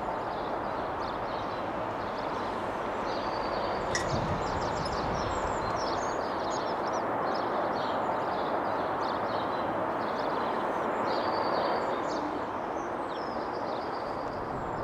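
European robin singing, a run of short, high, thin warbled phrases with brief pauses between them, over a steady hum of city traffic noise.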